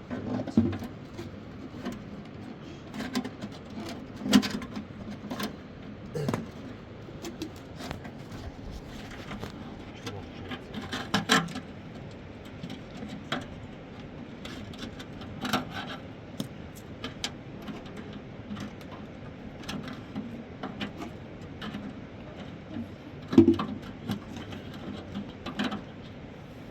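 Irregular knocks, clicks and scraping from hands-on work, with a few sharper knocks standing out, about four seconds in, eleven seconds in and near the end.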